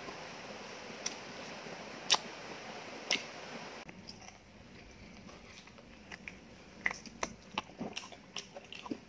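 Close-up eating sounds of a person biting into and chewing a piece of beef from a curry, eaten by hand. Two sharp clicks about two and three seconds in are the loudest, followed by a run of small wet smacks and clicks of chewing. A steady hiss in the first few seconds drops away about four seconds in.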